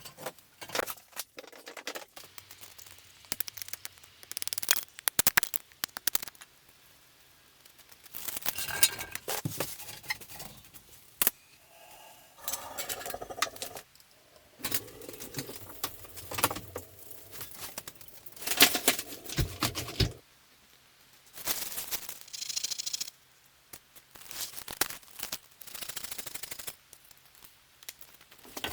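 Hand work on materials and small objects: a run of clicks, rattles and scrapes in short bursts, with quiet pauses between them.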